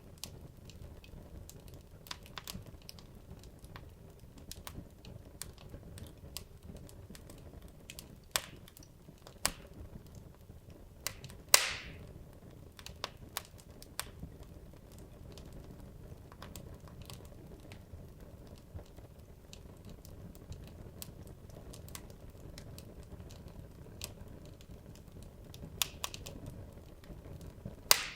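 Wood logs burning in a fireplace: scattered crackles and small pops over a low steady rush, with one louder pop about twelve seconds in and another near the end.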